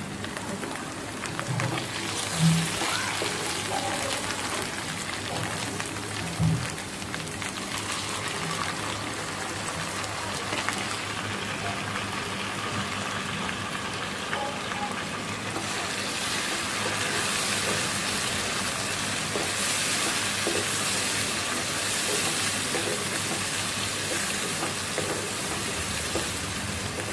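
Chopped onions, tomato and green chillies sizzling in hot oil in a non-stick frying pan while a spatula stirs them. There are two short knocks within the first seven seconds, and the sizzle grows louder about sixteen seconds in.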